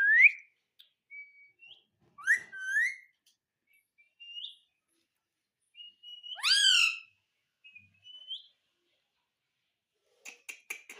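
Pet parrot whistling and chirping: a string of short rising whistles with pauses between, the loudest a sweeping upward whistle about six and a half seconds in, followed by a quick run of clicks near the end.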